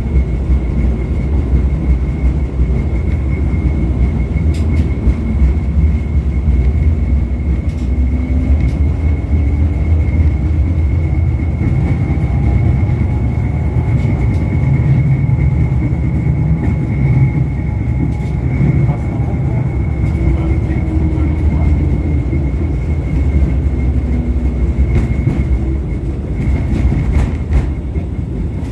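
LVS-86K articulated tram running between stops: a heavy rumble of wheels on rails, with a motor whine that rises and falls in pitch as it speeds up and slows, and a steady high whine throughout.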